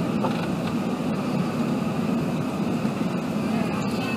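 Steady airliner cabin noise inside an Airbus A380: an even, low rumble of engines and airflow with no change in level.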